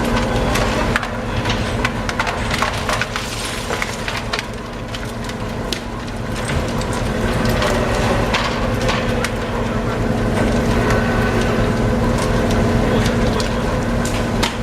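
Steady machinery hum with many irregular sharp clattering knocks on top, from a purse-seine boat's catch being unloaded and sorted.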